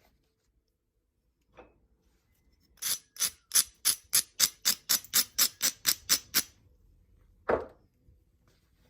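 Novaculite edge being abraded: a quick run of about sixteen rasping scraping strokes, roughly four a second, that prepares the edge for flaking. One single duller scrape or knock follows near the end.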